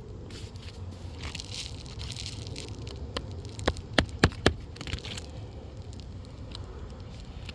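Asphalt roofing shingles being handled and worked into place, with gritty scraping and crackling, then four quick sharp knocks about four seconds in.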